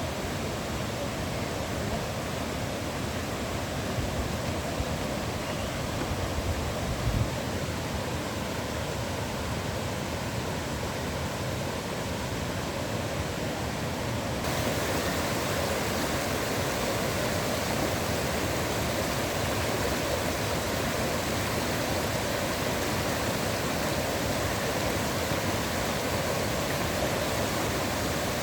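Steady rush of water from a waterfall, an even noise with no let-up. A brief low bump comes about seven seconds in, and about halfway through the rush turns slightly louder and brighter.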